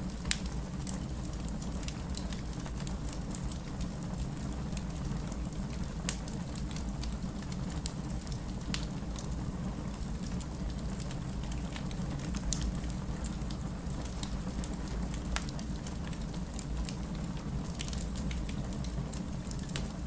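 Wood fire burning in a fireplace: a steady low rumble of flames with irregular sharp crackles and pops from the burning logs, a few louder snaps standing out about six and twelve seconds in.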